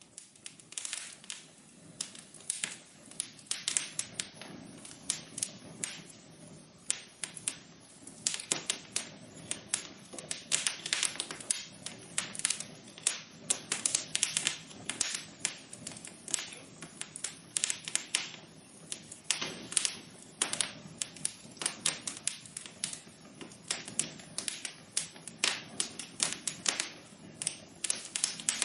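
Wood fire crackling in a fireplace: dense, irregular pops and snaps over a low steady hiss.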